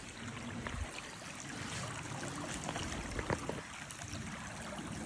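Steady rush of flowing water, like a stream, with a few faint clicks scattered through it.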